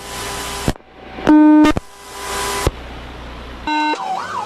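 Police radio channel hissing with static between transmissions, broken by a loud electronic beep near the middle and a shorter beep near the end. Just before the end a patrol car siren starts a fast up-and-down yelp.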